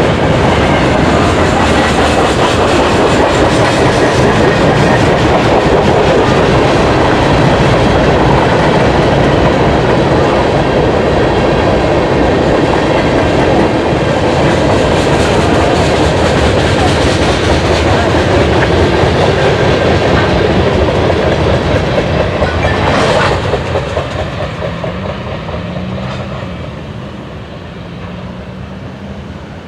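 Freight train cars rolling past with a steady clickety-clack of wheels over the rail joints. About 23 seconds in the sound drops off sharply and fades as the end of the train goes by and recedes.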